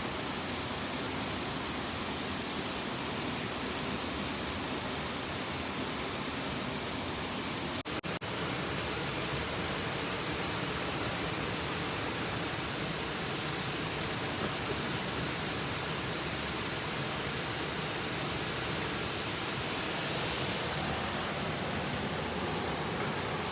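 Trentham Falls, a 32-metre single-drop waterfall swollen by winter rain, giving a steady rush of falling water, broken by two or three very brief dropouts about eight seconds in.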